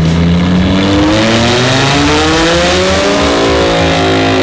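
Supercharged Lamborghini Huracán V10 revving up through a titanium center-mount exhaust, its pitch climbing steadily for about three seconds before leveling off.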